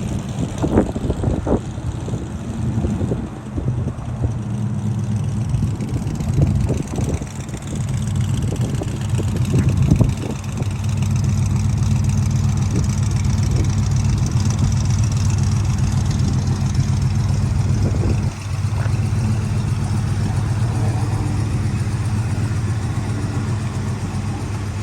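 Car engine running steadily at low speed, a low even drone with a few short knocks in the first seconds and a brief dip in level about two-thirds of the way in.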